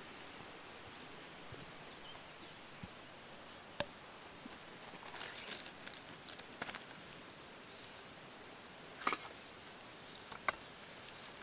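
Steady rain pattering in the woods, with a few sharp cracks and clicks on top. The loudest cracks come about four and nine seconds in.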